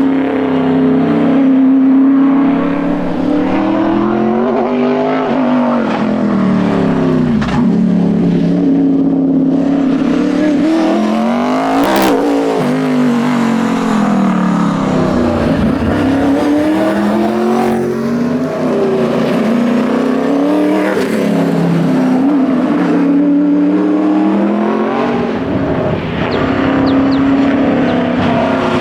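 1980 Ford Falcon XD Phase 5 rally car's engine at speed: it revs up and drops back again and again, rising through the gears and falling off on lifts and braking. A sharp click sounds once, about midway.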